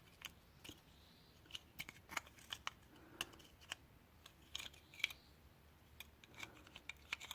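Faint, irregular small plastic clicks and taps as the Runcam 2 action camera's casing and top cover are handled and fitted back together.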